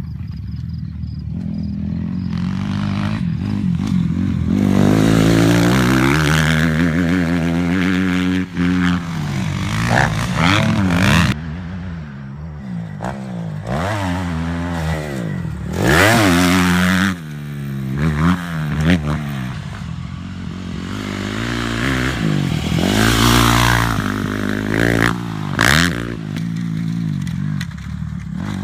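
Dirt bike engines revving hard and easing off again and again, the pitch rising and falling over and over, with a few brief louder bursts.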